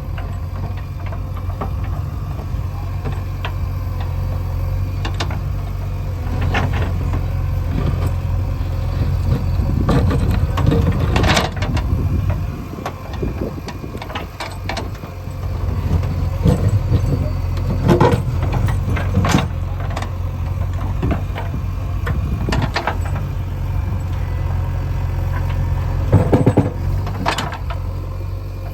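JCB 3DX backhoe loader's diesel engine running steadily while it works. Sharp clanks and knocks come every few seconds as the bucket strikes and scrapes stones.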